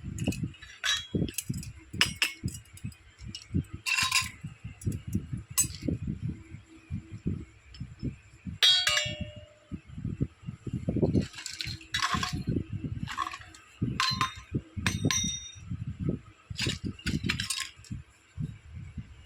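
Miniature toy kitchen pieces being handled: a steady run of soft knocks and taps, with a dozen or so sharper light clinks, a few of them ringing briefly.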